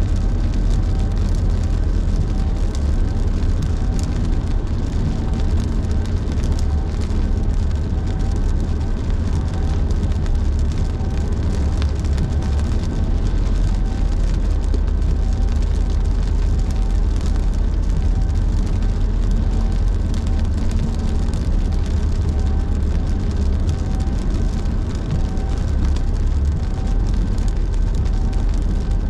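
Car in motion on a wet highway in heavy rain, heard from inside: a steady low road rumble with the hiss of tyres on wet pavement. A faint rhythmic sweep repeats about once a second, like windshield wipers.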